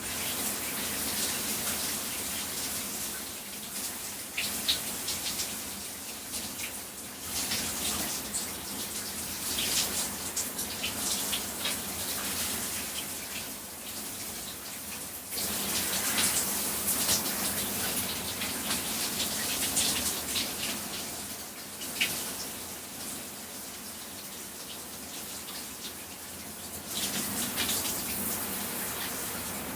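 Shower spray running onto a person's body. The splashing grows louder and softer several times, with occasional sharp spatters.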